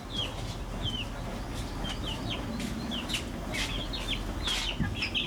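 Chickens clucking, with many short, high chirps that fall in pitch, several a second.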